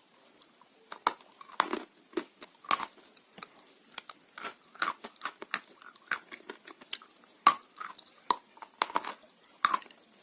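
Close-miked chewing of dry blue Uzbek clay: irregular sharp crunches, about one or two a second, with short quiet gaps between bites.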